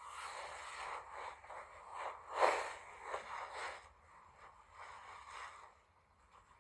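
Tent fabric and camping gear being handled while pitching the tent: irregular rustling and scraping, loudest about two and a half seconds in, quieter after about four seconds.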